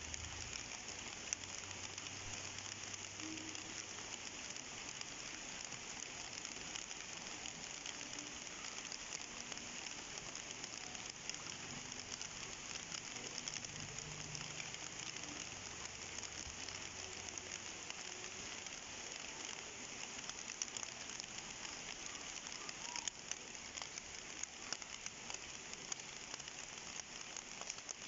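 Steady rain falling on a surface, a continuous hiss of many small drop ticks that holds at one level.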